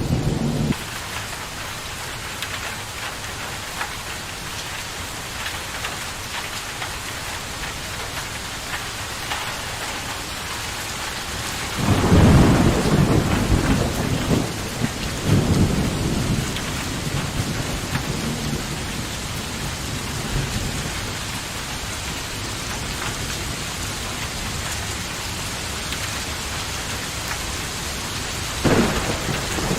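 Steady heavy rain falling, with thunder rumbling about twelve seconds in for several seconds, a smaller rumble soon after, and a short one near the end.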